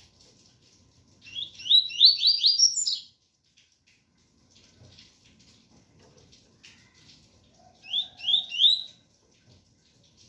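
Double-collared seedeater (coleiro) singing the 'tui-tui' song: a quick run of about six rising whistled notes about a second in, soft scratchy twittering, then three more rising notes near the end.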